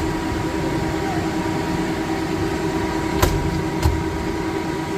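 Steady machine hum with a constant low tone, broken by two short knocks about half a second apart a little past the middle.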